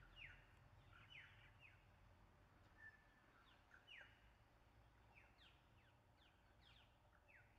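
Faint calls of small birds: many short chirps that sweep down in pitch, scattered irregularly, over a low background rumble.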